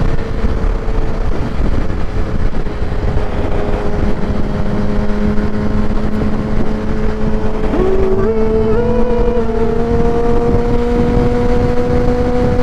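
Kawasaki ZX-10R's inline-four engine running through a Graves race exhaust at cruising speed, its note steady and rising slowly, under a heavy rush of wind on the helmet microphone. About eight seconds in, a brief stepped rising tone joins it.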